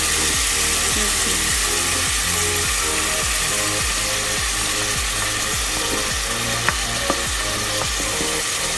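Meat, onions and spices sizzling in a pressure cooker as a wooden spatula stirs and scrapes them, with two light knocks near the end. Background music plays underneath.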